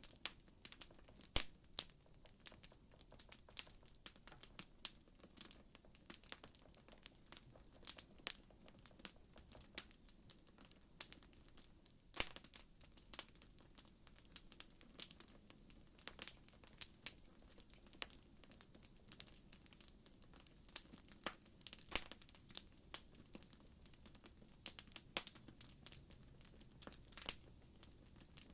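Wood fire crackling: irregular sharp pops and snaps, some much louder than others, over a faint low rumble.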